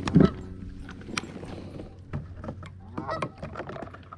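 Geese honking several times, with a loud thump just after the start and scattered sharp clicks.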